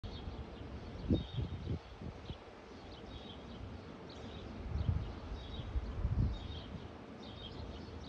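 Small birds chirping in the background: short, thin, high chirps repeated about every half second. Low rumbles come about a second in and again around five to six seconds.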